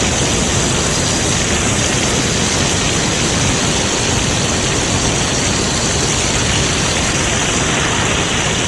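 Steady rushing hiss of water jetting from fire hoses at high pressure.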